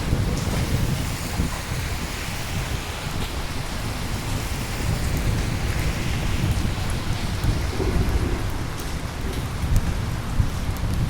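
Steady rain with a continuous low rumble of rolling thunder underneath, and a few sharper drip ticks in the last few seconds.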